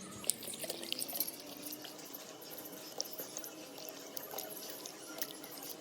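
Water splashing and trickling as raw chicken is washed, with scattered small clicks and drips.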